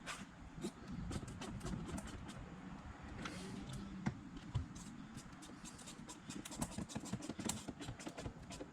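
A run of small clicks, taps and scratchy handling noise of plastic car door trim pieces being handled and fitted back in place.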